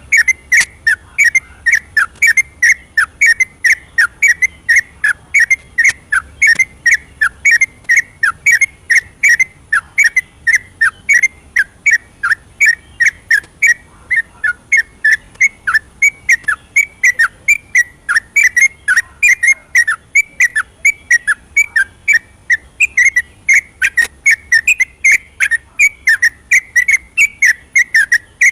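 Yellow-vented bulbul singing a long, unbroken run of short whistled notes, about three a second, each note bending around the same pitch. This is the fast continuous 'ropel' song used as a lure to set other bulbuls singing.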